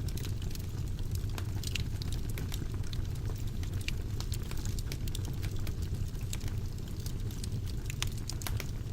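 Wood fire burning in a fireplace, a steady low rumble of the flames with frequent irregular crackles and pops.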